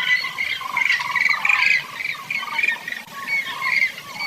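Cranes calling: a run of short, rolling, honking calls, several overlapping and repeated in quick succession.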